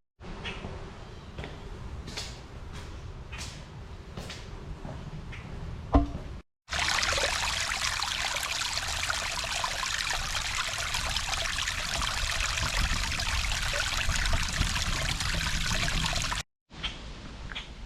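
Steady, dense hiss of heavy rain running for about ten seconds between two abrupt cuts. Before and after it is quieter low rumble with short high chirps.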